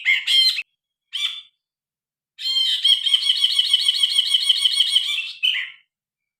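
Brinji kelabu (grey bulbul) singing: a few short chirping calls, then a long, fast, rattling trill of about three seconds ending in one short note.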